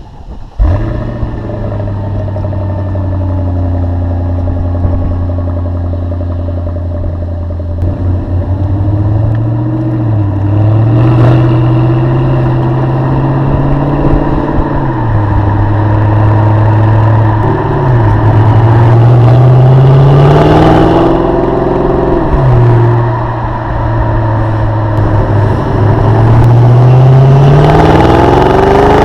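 Mercedes-Benz CLS 55 AMG's supercharged V8 through its stock exhaust. It starts about half a second in and idles steadily for several seconds, then is revved repeatedly: the pitch climbs, holds at raised revs for a few seconds and drops back toward idle each time.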